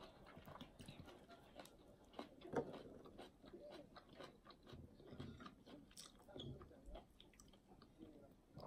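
Faint, close chewing and lip-smacking with many small wet clicks as a person eats fried fish by hand.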